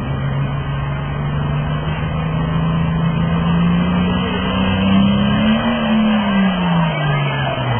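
International 5488 tractor's engine running hard on a pull, its pitch climbing steadily for about five seconds and then dropping sharply near the end before picking back up.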